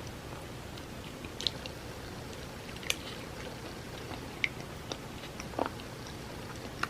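Close-miked chewing of cake: about half a dozen short, wet mouth clicks and smacks scattered over a steady low background hum.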